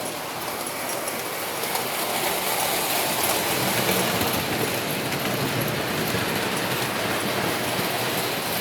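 Prewar Lionel 390E Standard Gauge electric toy train running steadily on tinplate track, a continuous whirring noise of motor and wheels.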